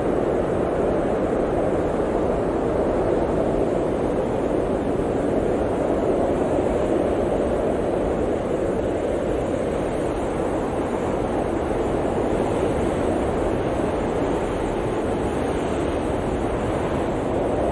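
Blizzard wind blowing steadily, a dense low rushing noise that swells and eases slightly without letup.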